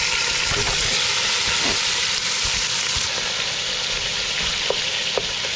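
Raw chicken frying in hot olive oil in a pan: a loud, steady sizzle, fading slightly, with a couple of light taps near the end.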